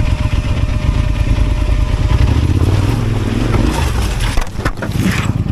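Motorcycle engine running at low speed with a low, pulsing exhaust note. The note shifts about three seconds in and dips briefly, and a few sharp crunching or scraping sounds follow near the end.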